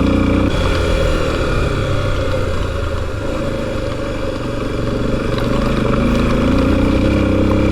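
Motorcycle engine running steadily while riding over a rocky gravel road, with tyre and wind noise around it; the engine note drops back just after the start and climbs gently again in the second half.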